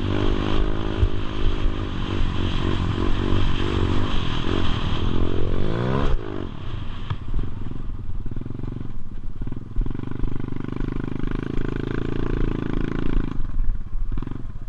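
Motorbike engine revving, its pitch climbing to a peak about six seconds in, then dropping and running lower and steadier before falling away near the end.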